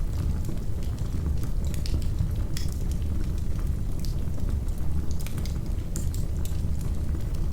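Wood fire crackling in a fireplace: a steady low rumble of flames with irregular sharp pops and crackles, a few each second.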